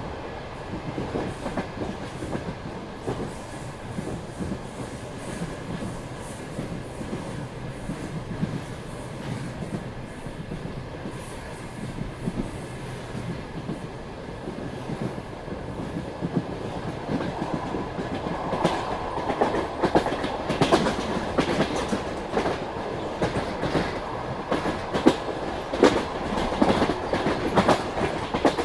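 Passenger train wheels running over the rails with a steady rumble and clickety-clack of wheels over rail joints. About two-thirds of the way through, the clatter grows louder and busier, with many sharp clicks.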